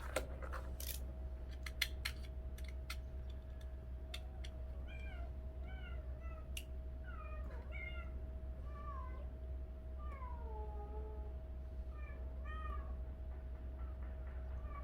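A cat meowing over and over in short calls that bend in pitch, over a steady hum. A few sharp clicks come in the first three seconds.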